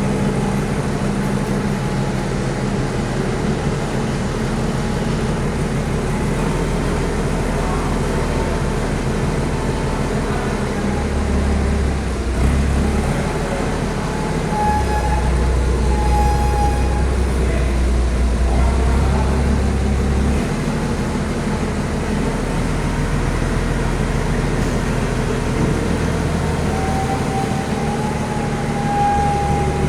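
Heavy vehicle's engine running steadily with a deep rumble that swells around the middle. A thin high tone comes and goes twice, about halfway and near the end.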